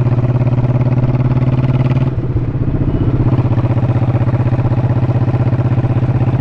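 Honda motorcycle engine running at a steady speed under way, a fast even pulsing with a constant low pitch. About two seconds in the note briefly breaks and wavers, then settles back to the same steady running.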